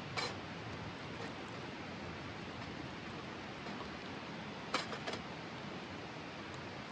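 Steady rush of flowing river water, with three short sharp clicks: one just after the start and two close together about five seconds in.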